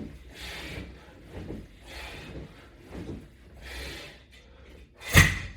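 Rhythmic rubbing and breathing of a person doing strap-assisted crunches, about one repetition every one and a half seconds, then a single loud thump about five seconds in.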